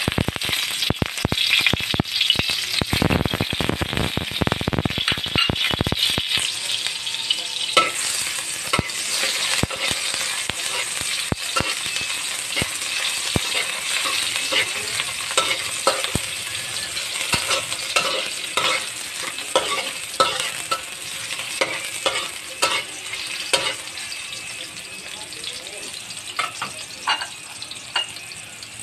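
Sliced garlic and red onion sizzling in hot cooking oil in a metal wok, loudest and most crackly for the first few seconds after they go in, then settling into a steady sizzle that slowly fades. A metal spatula scrapes and taps against the wok as they are stirred.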